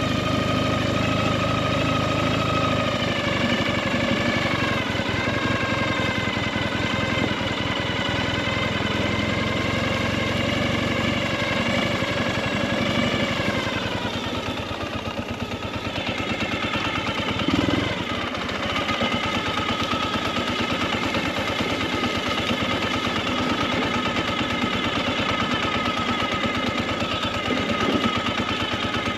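Motorcycle engine running under way, with a rapid pulsing exhaust note; about halfway through the revs sag and the note thins for a couple of seconds, then it picks up again and holds steady.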